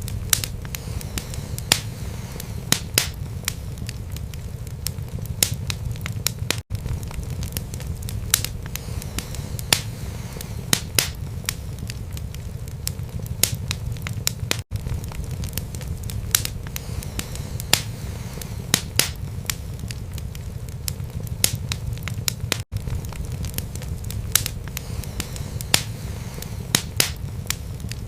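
Wood fire burning in a fireplace: a steady low rumble of flames with irregular sharp crackles and pops from the burning wood, several a second. The sound cuts out very briefly about every eight seconds.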